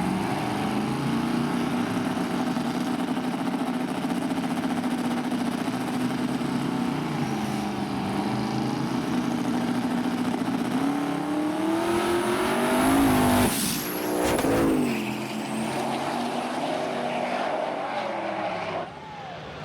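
High-powered drag racing truck engines running steadily, then revving hard with sharp rises and falls in pitch and a high whistle about twelve seconds in. This is loudest around the launch and pass, and drops off suddenly near the end.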